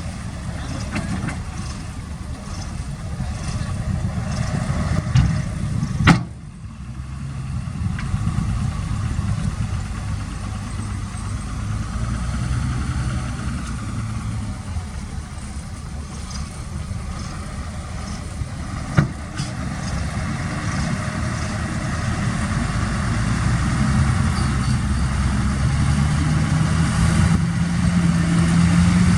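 Diesel engine of heavy earthmoving equipment running steadily, its pitch rising over the last few seconds as it revs up. Two sharp clicks cut through, about six seconds in and again near nineteen seconds.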